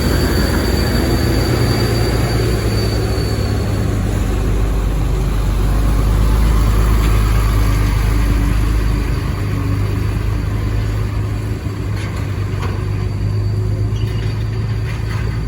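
Heavy truck's diesel engine running with a deep, steady rumble that swells about halfway through and then eases off. A faint high whine sounds over it in the first few seconds and fades away.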